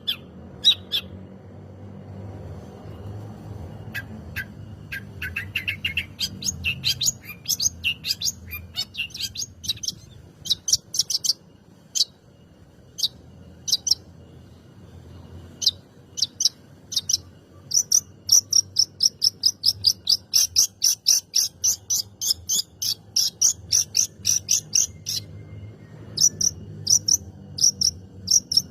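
Long-tailed shrike (cendet) singing in its loud chattering mode: fast runs of short, sharp, high notes, with a brief break about halfway and another near the end.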